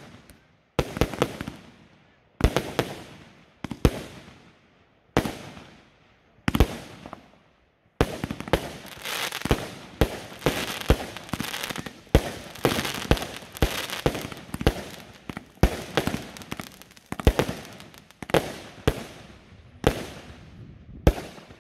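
Aerial fireworks bursting: sharp bangs about every second and a half, each trailing off in crackle, then from about eight seconds in a dense, rapid string of bangs and crackling that goes on to near the end.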